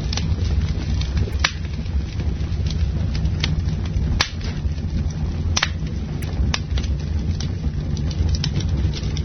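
Campfire burning: a steady low rumble of flames with sharp, irregular crackles and pops of burning wood, about one a second.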